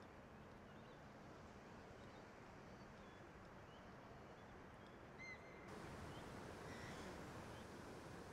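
Faint outdoor ambience with a few faint, short bird chirps. The background gets a little louder about two-thirds through.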